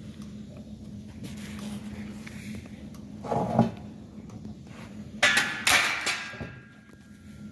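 A brief scraping clatter, then two sharp knocks of hard objects with a ringing clatter dying away after them, over a steady low hum.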